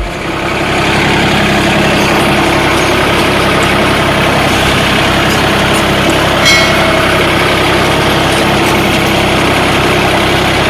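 Three-cylinder diesel engine of a John Deere 3036 compact tractor running steadily. About six and a half seconds in, a brief high-pitched squeak is heard.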